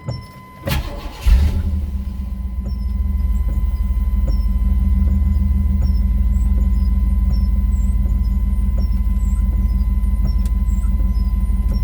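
1997 Chevy K1500's 5.7 L V8 engine cranking briefly and catching about a second in, then idling steadily.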